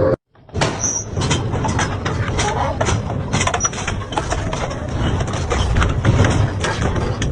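Double-shaft industrial shredder chewing scrap metal: a heavy, steady rumble packed with frequent sharp cracks and snaps of metal being torn. It starts after a brief dead-silent gap at the very beginning, where the footage cuts.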